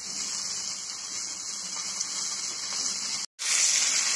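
Shallots, tomatoes and dried red chillies sizzling steadily in hot oil in a frying pan. The sound cuts out for a moment about three seconds in.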